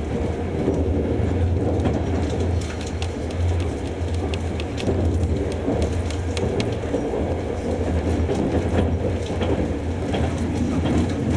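Passenger train running, heard from inside the coach: a steady low rumble with scattered light clicks and rattles.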